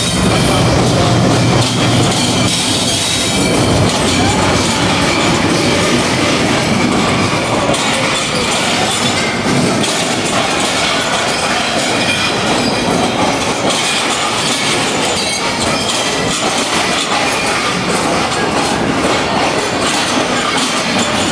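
A diesel-electric passenger train moves slowly past along the platform. A GEU-40 locomotive's engine hum fills the first few seconds, then the coaches' wheels run steadily over the rails.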